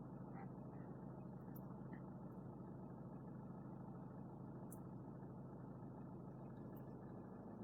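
Nissan Qashqai 1.5 dCi four-cylinder turbo diesel idling, a faint steady low hum heard from inside the cabin.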